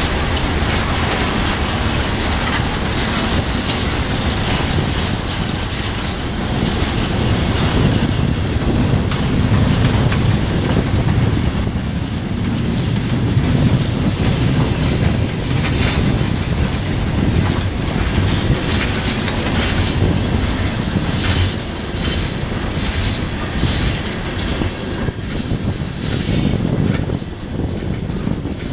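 A freight train's cars rolling past, their steel wheels rumbling on the rails, with repeated sharp wheel clacks over the rail joints in the later part.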